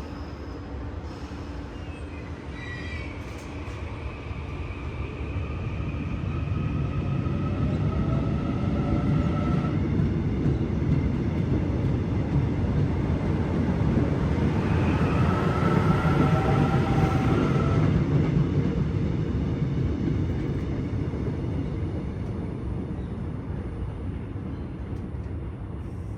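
A train running past on the track: a low rumble of wheels on rails that builds up, holds for about ten seconds, then fades. High steady squealing tones come and go above the rumble.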